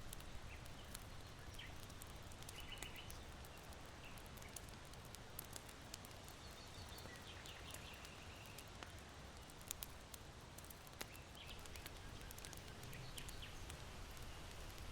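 Charcoal in an irori hearth crackling softly with scattered sharp pops, while small birds chirp faintly in several short bursts over a low rumble of wind.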